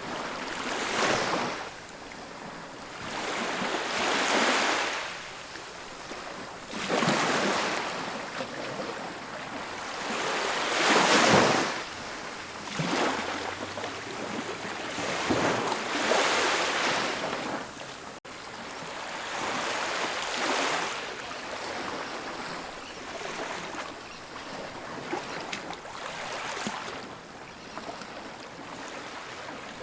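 Ocean waves breaking and washing on a beach in repeated surges every few seconds, the biggest about a third of the way in.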